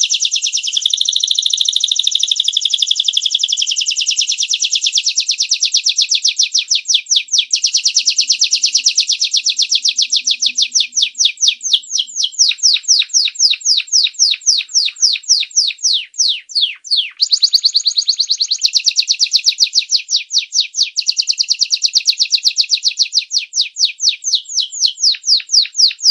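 Domestic canary singing a long, continuous song of rapid repeated notes. It starts as a dense, fast trill and slows to distinct downward-sliding notes, several a second, in the second half.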